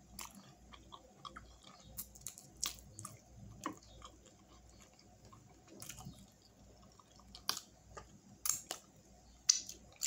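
Close-up chewing of a sauce-covered chicken wing: irregular wet mouth clicks and smacks, with a few louder smacks in the last couple of seconds.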